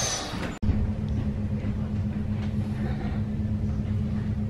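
Steady hum inside an electric commuter train carriage (an Sm5 Stadler FLIRT unit), with a low rumble and a steady tone. It starts abruptly about half a second in, after a brief louder sound that is cut off.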